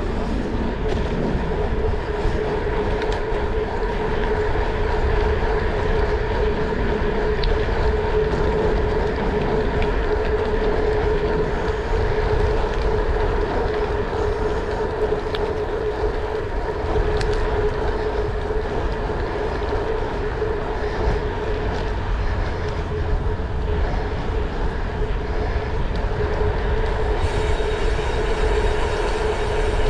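Steady, continuous drone of a running vehicle: low rumble with a steady humming tone, and a few faint clicks scattered through it.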